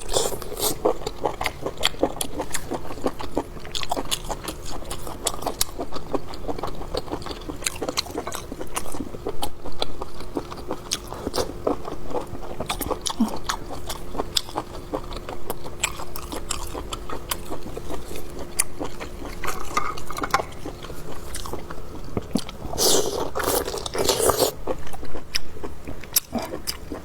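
Close chewing and biting of braised circle sausage made from pork small intestine: a steady run of wet mouth clicks and crunches, with a louder bout a few seconds before the end. A faint steady hum runs underneath and stops a few seconds before that bout.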